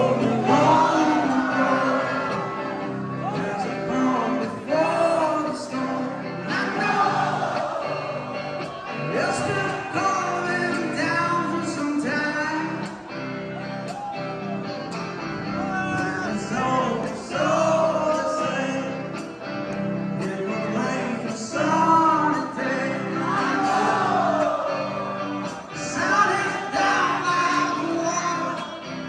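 Music: a man singing a song over a strummed guitar.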